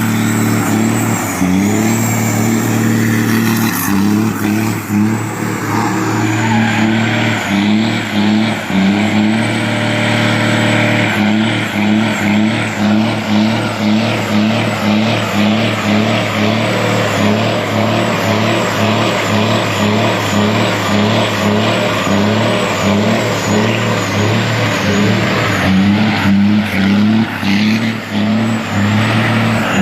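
Formula Truck racing trucks' diesel engines running, a continuous low drone with a regular pulsing note over it.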